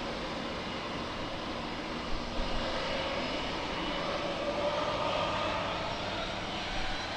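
Jet airliner engines running, heard as a steady noise with a faint whine that swells a little in the middle and then eases.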